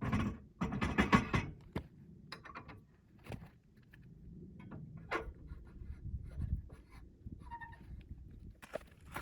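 Irregular scraping and knocking, loudest and busiest in the first second and a half, then softer scattered knocks and rustles; no sawmill engine or blade is running.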